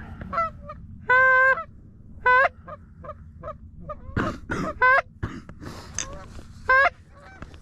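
Loud goose honks: one drawn-out honk about a second in, then several short clipped honks and clucks spaced a second or two apart.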